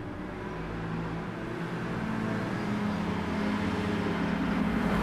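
A motor vehicle's engine running steadily and growing gradually louder, as if drawing nearer.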